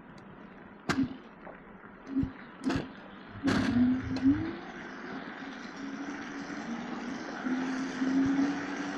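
Street traffic and road noise heard while riding an electric scooter, with a few sharp knocks in the first half and a steady low hum taking over in the second half.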